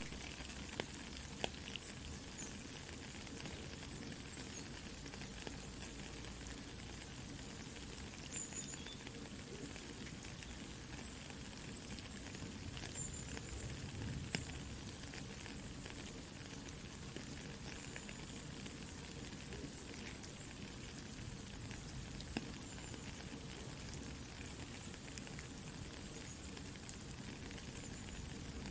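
Soft, steady rain with the scattered crackles and pops of a campfire burning.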